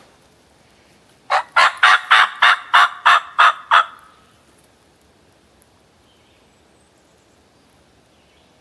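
An eastern wild turkey gobbler gobbling once: a loud, rapid rattle of about ten notes over some two and a half seconds, with a short echo. The gobble answers the hunters' call sequence and tells them the bird is not far off.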